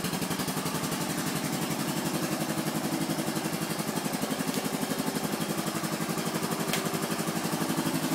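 Honda 350 FourTrax 4x4 ATV's single-cylinder four-stroke engine idling steadily in an even rhythm, still cold from a start after sitting two days. A single faint click near the end.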